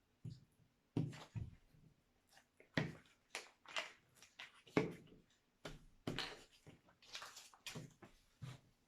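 Paper craft work: construction paper being handled and glued, a string of irregular short rustling and rubbing strokes with a few soft taps on the table.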